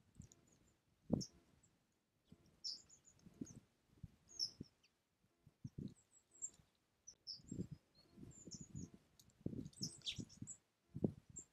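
Small songbirds at a feeder giving short, high chirps and call notes scattered throughout, mixed with frequent soft, low thumps.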